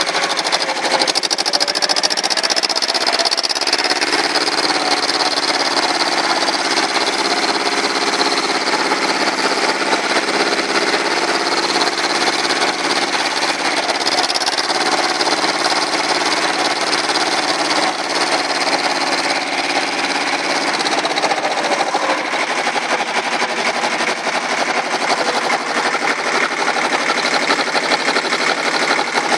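A small engine running steadily and close by, with a fast, even pulsing beat.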